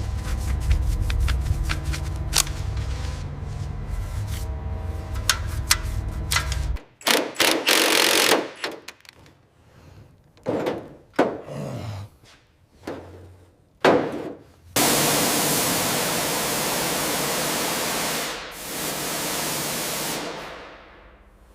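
A run of workshop tool sounds: a machine running with a low hum and rapid clicks for about seven seconds, then short separate bursts, then a long steady hiss that fades out near the end.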